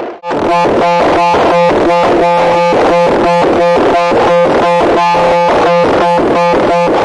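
Loud, harsh electronic buzzing tone pulsing rapidly and evenly, about five pulses a second, with a brief break about a quarter second in.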